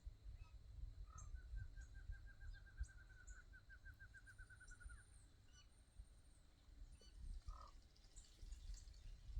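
Faint outdoor birdsong: a fast, even trill of repeated notes lasting about three and a half seconds, with scattered short high chirps and a couple of brief lower calls, over a low rumble.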